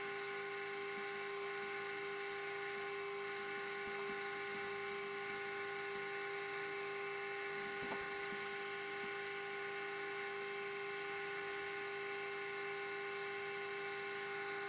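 Metal lathe running steadily, its motor and gearbox giving a constant hum with several steady tones. There is one faint click about eight seconds in.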